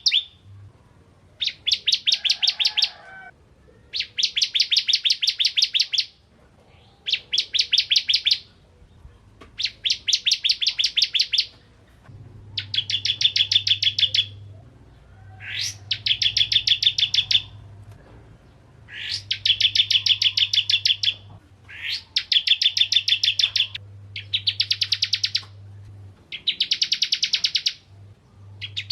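A ciblek kristal prinia singing loud, rapid rattling trills of sharp repeated notes. About ten phrases of roughly two seconds each come with short pauses between them, and one quick rising note sounds about halfway through.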